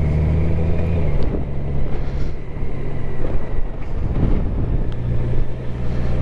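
Motorcycle engine running, heard through a helmet-mounted camera with wind on the microphone. The steady engine note turns rough and noisy about a second in and settles back to a steady hum near the end.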